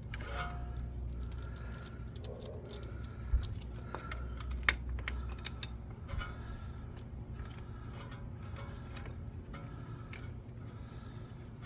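Metal clinking and scraping as an old brake pad is worked into a brake caliper to push its piston back, with two sharper knocks a few seconds in.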